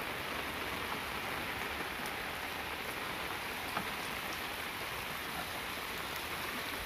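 Heavy monsoon rain falling steadily, a continuous even hiss, with now and then a single drop ticking close by.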